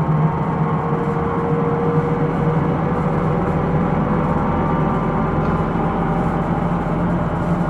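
Hino Rainbow II non-step bus (SDG-KR290J1) driving, heard inside the cabin: a steady diesel engine drone with road noise. A faint higher whine fades out about two seconds in.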